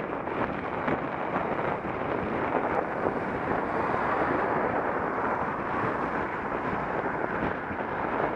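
Wind buffeting the microphone of an action camera on a moving bicycle: a steady rushing noise.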